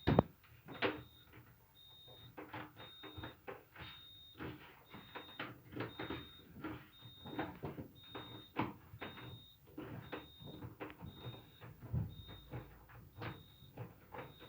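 An electronic beeper gives short high-pitched beeps over and over, about one every half second or so. Irregular clicks and knocks of hands working on the appliance sound between the beeps.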